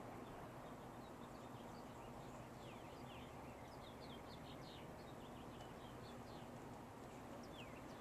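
Faint bird chirping: many short, quick falling chirps, thickest around the middle, over a steady outdoor hiss.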